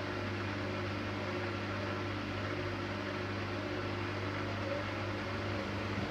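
Siemens Siwamat iQ 716 washing machine running with a steady low hum.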